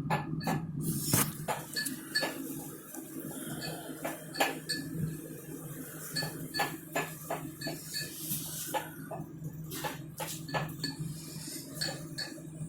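Dishes and cutlery clinking, a quick run of short sharp knocks with a brief metallic ring, over a steady low hum.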